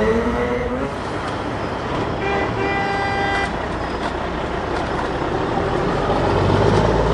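A vehicle horn toots once for about a second, a little over two seconds in, over a steady rumble of vehicle noise. A short rising tone sounds in the first second.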